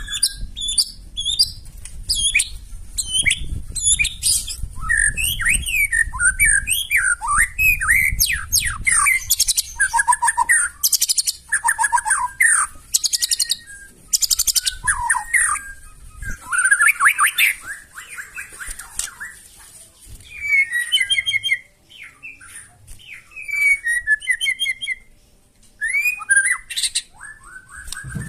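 White-rumped shama singing a long, varied song of quick whistled phrases, fast trills and harsh rattling bursts, with short pauses between phrases.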